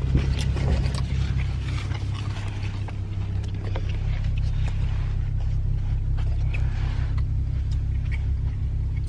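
Car engine idling, a steady low hum heard inside the car's cabin, with light rustling and small clicks over it.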